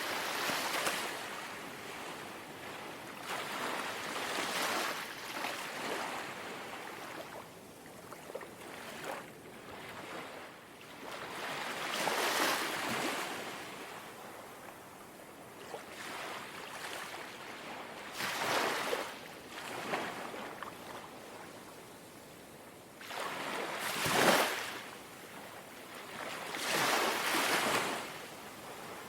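Small, gentle sea waves lapping on the shore, each wash swelling and fading every few seconds, with one louder wash about three-quarters of the way through.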